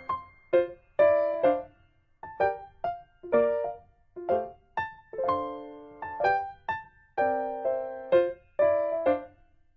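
Background piano music: notes and chords struck in short phrases, each fading away before the next.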